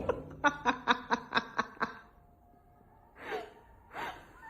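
A person laughing in a quick run of short breathy bursts, about five a second, then breaking off. Two brief falling vocal sounds follow near the end.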